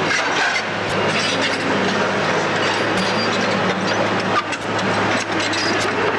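Heavy demolition machinery running steadily with an engine hum, with scattered sharp clicks and cracks of breaking debris.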